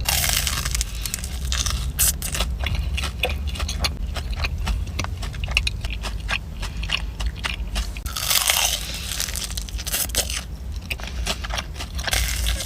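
Close-miked biting and chewing of a sugar-coated Korean corn dog: crisp crust crunching and crackling, with louder crunchy bites right at the start and about eight seconds in.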